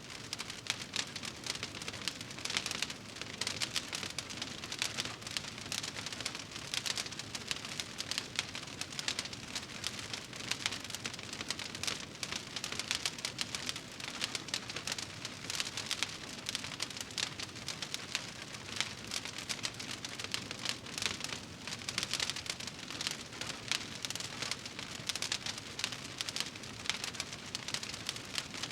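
Fire in a fireplace crackling: a steady, dense stream of small pops and snaps.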